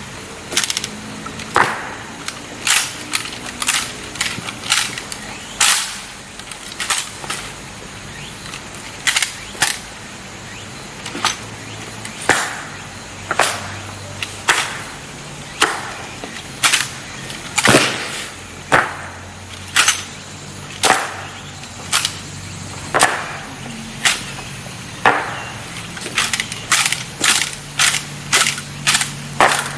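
Honor guard rifle drill: a long run of sharp cracks and claps as rifles are slapped, spun and their butts stamped on the ground, irregularly spaced and coming faster near the end.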